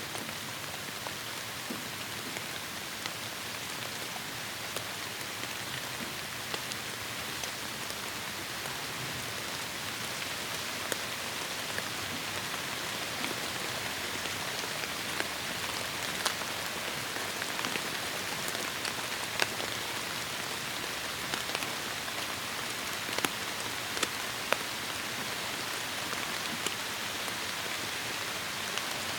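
Heavy rain falling steadily in a tropical forest: a dense, even hiss with many individual drops striking close by.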